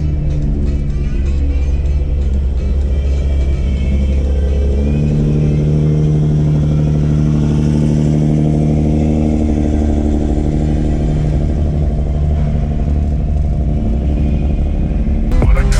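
A car engine running at a steady pitch, with a low rumble.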